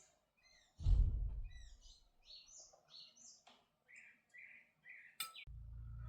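Small birds chirping, a string of short high notes. A loud low thud comes about a second in, and a steady low hum starts near the end.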